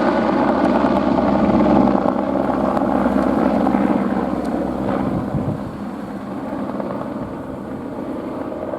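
Airbus AS350 single-turbine helicopter flying, its rotor and engine sound steady and loud at first, then growing gradually fainter from about two seconds in as it moves away.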